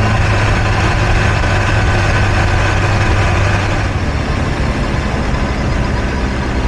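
Kawasaki H2 SX motorcycle's supercharged inline-four running steadily under way, a low engine drone over road noise. The sound changes slightly about four seconds in.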